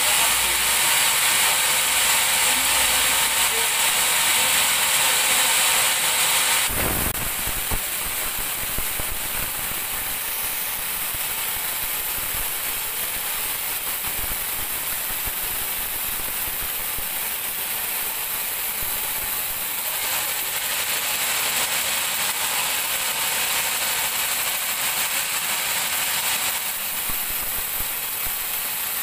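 Large sawmill band saw running and cutting a teak log, a steady hissing saw noise. It drops off suddenly about seven seconds in and swells again for several seconds later on.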